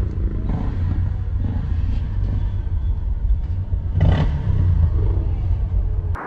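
Motorcycle engine running with a steady low rumble, cutting off abruptly about six seconds in.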